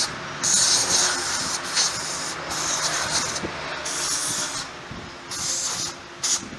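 Pressurised gas hissing from a nozzle in about six short bursts, each under a second, as in spraying brake cleaner or blowing out parts with air during scooter brake and wheel work.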